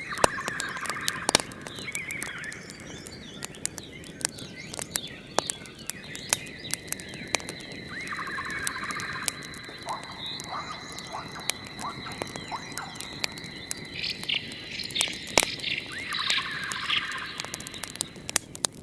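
Fire crackling with many sharp pops throughout, over two thin steady high tones. Warbling chirps come in short phrases near the start, about halfway and near the end, with quicker chirps between them.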